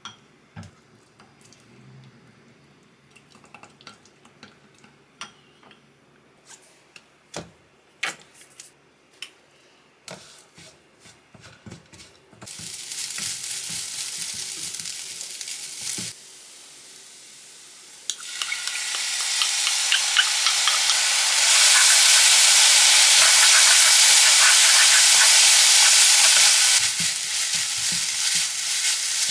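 Small clinks and taps of kitchen utensils, then food frying in a hot pan. The sizzling starts about twelve seconds in, breaks off briefly, then comes back louder and crackling.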